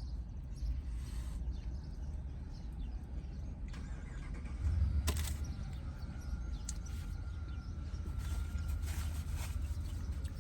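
Low rumble of a car engine running, growing louder about halfway through, with a single sharp click just after it swells.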